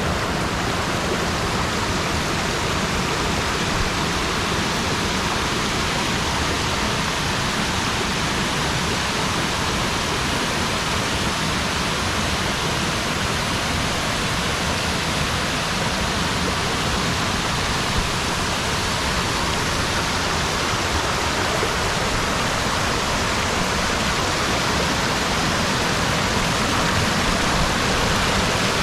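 Waterfall rushing: a steady, loud wash of falling water without a break.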